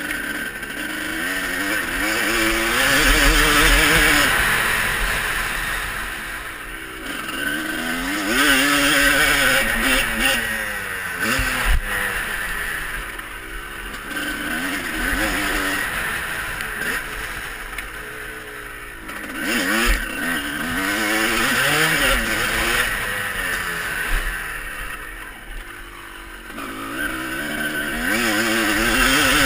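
Motocross bikes riding the track, their engines revving up and dropping off again and again through the gears. The sound swells louder several times as bikes come past.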